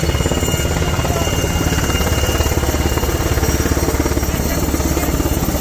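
Helicopter running steadily close by, its rotor beating in a fast, even throb over a deep engine hum.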